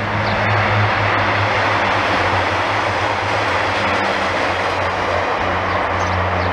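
Three coupled Northern class 142 Pacer diesel multiple units passing close by: a steady low diesel engine hum under loud, even wheel-on-rail noise.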